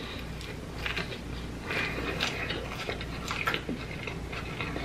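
A person chewing a crunchy hard-shell taco, with irregular sharp crunches of the shell breaking between the teeth.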